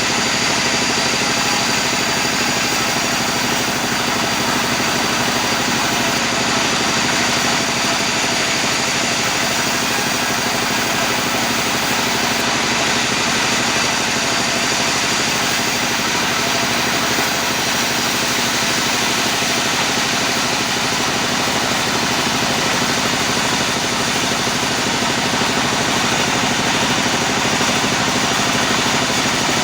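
Sawmill machinery running steadily: a loud, even mechanical hum that holds one pitch throughout, with no breaks.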